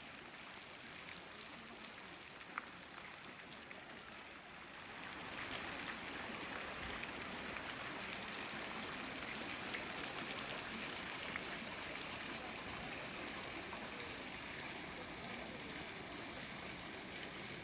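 Steady rushing water, stepping up in loudness about five seconds in, with one sharp tick about two and a half seconds in.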